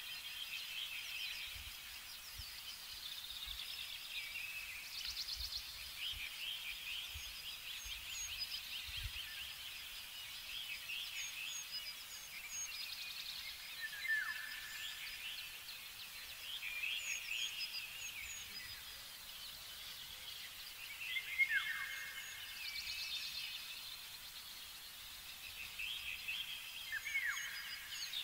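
Several songbirds singing at once, with overlapping high chirps and trills and a few louder, downward-sweeping calls.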